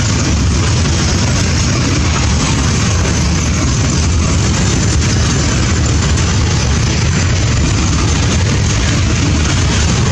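Container freight train's wagons rolling past: a loud, steady rumble of steel wheels on the rails.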